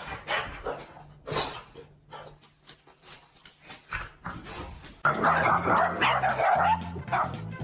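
A dog barking in short separate barks. About five seconds in, the sound suddenly gets louder and denser, with a steady low drone underneath.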